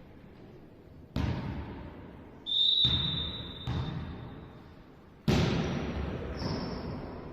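A volleyball hit hard four times, each smack ringing on in a large sports hall. A shrill steady tone lasting about a second follows the second hit.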